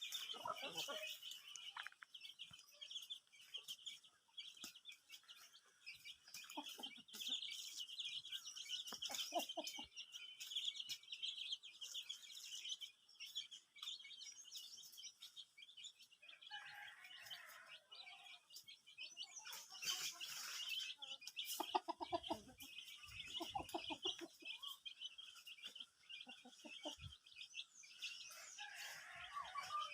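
Aseel chickens clucking at intervals, with a longer run of calls from about 20 to 24 seconds in, over continuous high-pitched chirping of birds.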